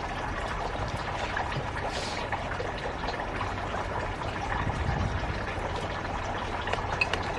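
A steady pouring, trickling sound with small scattered clicks.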